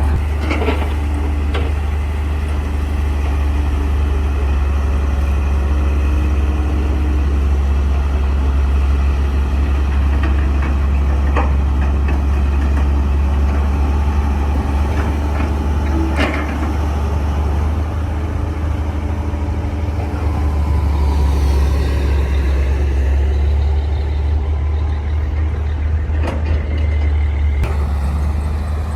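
Crawler bulldozer's diesel engine running steadily with a deep low rumble, with a few sharp metallic clanks here and there.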